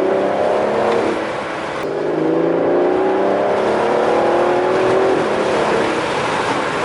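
Aston Martin DB11's twin-turbo V12 accelerating hard, its note climbing, dropping briefly about two seconds in, then climbing again before levelling off.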